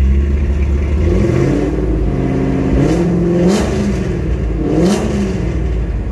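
2006 Chevrolet Corvette's 6.0 L LS2 V8, with an aggressive aftermarket cam and Corsa exhaust, being revved in place. It rises from idle about a second in and holds briefly, then takes two quick throttle blips and drops back to idle, with a crazy exhaust note.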